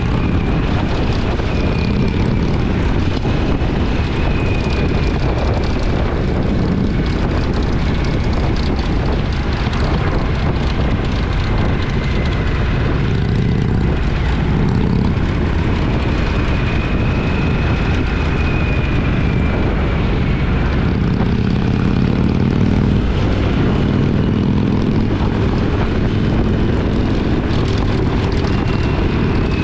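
Two-cylinder motorcycle engine running steadily at road speed, with wind rushing over the camera microphone.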